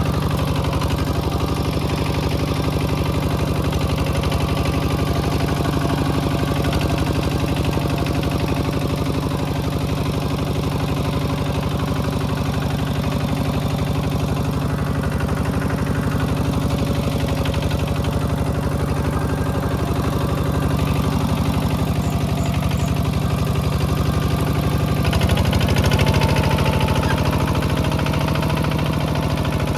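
Mini tractor engine running steadily, then picking up speed about 25 seconds in, with a brief rise in loudness.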